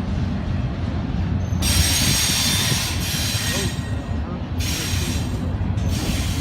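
Intermodal freight train rolling past with a steady low rumble, broken by three spells of high hissing wheel noise on the rails, the first about a second and a half in and the longest.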